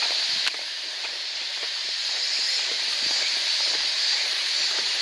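Steady high-pitched chorus of insects, with a pulsing higher layer repeating a couple of times a second. The level dips briefly about half a second in.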